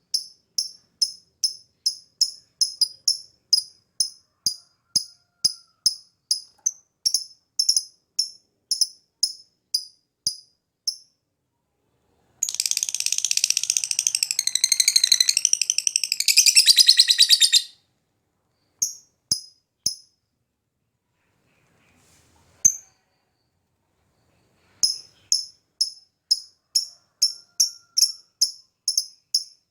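Lovebird calling: a steady run of short, sharp high-pitched chirps about three a second, breaking about twelve seconds in into a fast, continuous chattering trill lasting some five seconds. After a pause with a few single chirps and a click, the chirp run starts again near the end.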